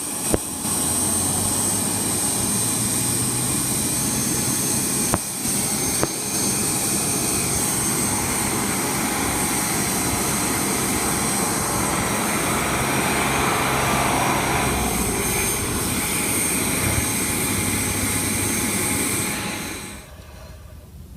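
Jet airliner engines running on the ground with a steady high whine over a broad rush, cutting off suddenly near the end.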